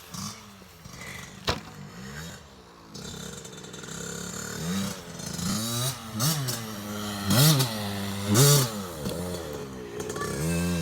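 Small dirt bike engine revving up and down over and over, with the loudest revs about seven and eight seconds in. A sharp click comes about a second and a half in.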